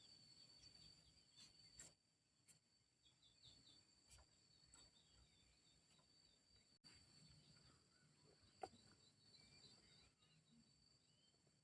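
Near silence: faint rural ambience with a steady high insect whine and a few faint bird chirps, plus occasional soft clicks.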